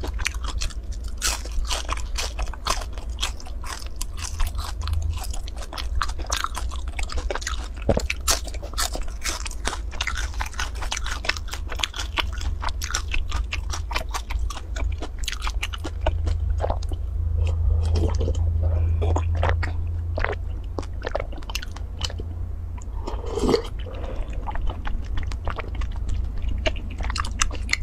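Close-miked crunching and chewing of crisp fried food: dense crunches in the first half, thinning out later. Near the end comes a sip from a plastic bubble-tea cup.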